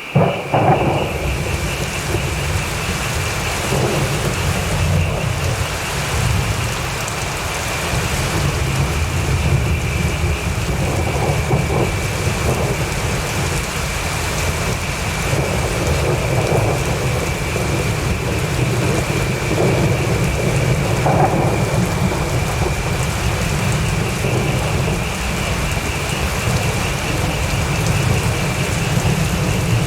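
Steady heavy rain with repeated low rolling thunder, opening with a sudden loud thunderclap. A thin steady high tone sits above the rain.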